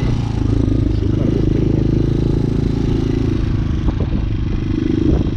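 Hawk 250 dual-sport motorcycle's engine running steadily at a gentle cruise, heard from on the bike.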